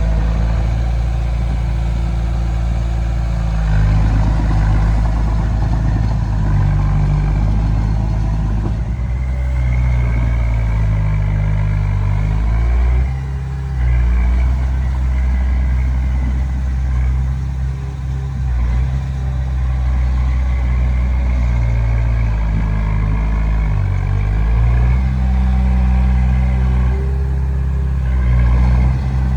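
Diesel engine of a Komatsu D20P bulldozer running under working load, its pitch rising and falling as it pushes. The loudness dips briefly about 13 seconds in.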